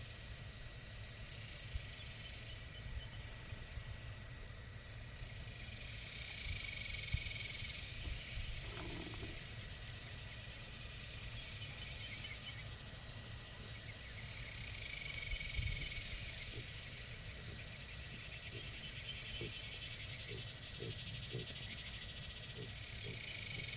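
Insects buzzing outdoors in a high hiss that swells and fades in waves every few seconds, over a low rumble, with a few short soft knocks in the last third.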